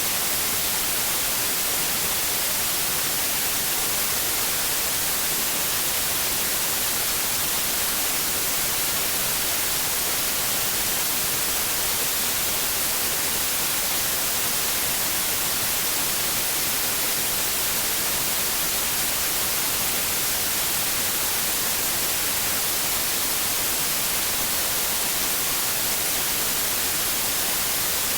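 Continuous white noise: an even, unchanging hiss, brightest in the treble, with nothing else over it.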